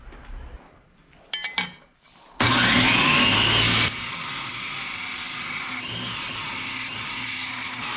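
A couple of sharp clicks, then an electric power tool switching on about two and a half seconds in, its whine rising as the motor spins up. It runs loud for about a second and a half, then drops to a steadier, quieter running sound.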